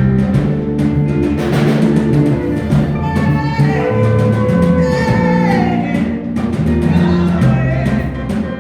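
Live praise band music: frequent drum hits over a moving bass line, with voices singing over it.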